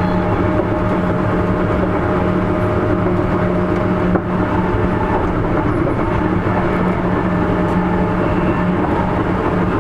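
Sotetsu 8000 series electric train running at a steady speed, heard from inside the car: a continuous rumble of wheels on rail with a steady hum. A brief click about four seconds in.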